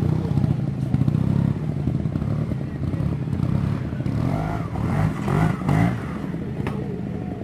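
Trial motorcycle engine running, its pitch rising and falling as the throttle is worked.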